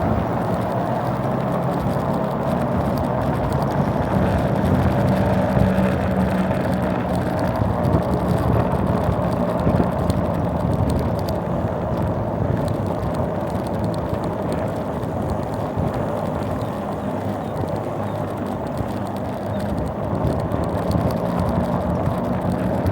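Small mini bike engine running steadily under way, its note holding at a fairly constant pitch.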